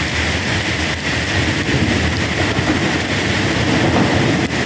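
Heavy rain pouring steadily, with a long low rumble of thunder rolling under it.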